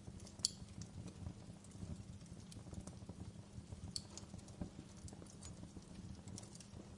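Wood fire burning: a steady low rumble of flames with irregular small crackles and two sharper pops, about half a second in and about four seconds in.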